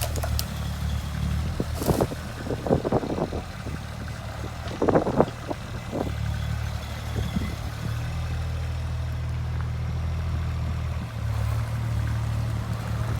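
JCB 8016 mini excavator's diesel engine running steadily, with its note shifting slightly a couple of times. Sharp knocks and cracks come in two clusters, about two to three seconds in and again around five seconds.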